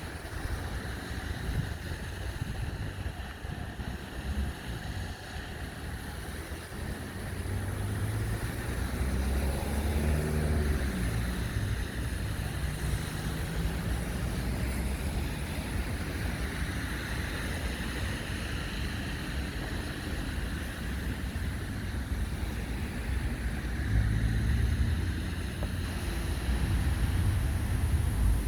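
Storm noise: a steady wash of wind and rain over a low rumble. A motor vehicle's engine rises and falls in pitch as it passes about ten seconds in, and another swells near the end.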